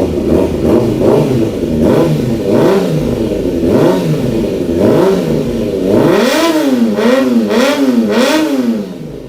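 Honda CB650R's inline-four engine revved through an aftermarket full exhaust system in repeated throttle blips, the pitch rising and falling each time. Shorter blips come first, then a quick run of bigger revs in the second half, easing off near the end.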